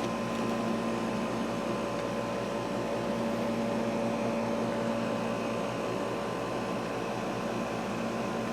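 Steady machine hum carrying a few constant tones, with no change or break.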